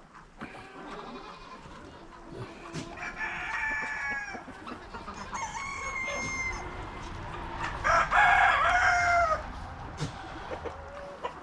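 Chickens calling, with roosters crowing: several drawn-out calls, the loudest coming about two-thirds of the way through.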